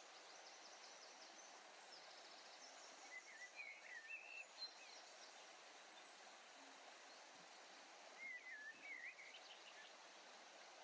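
Faint outdoor ambience: a soft steady hiss with scattered bird chirps, in two short runs, about three to four and a half seconds in and again around eight to nine seconds.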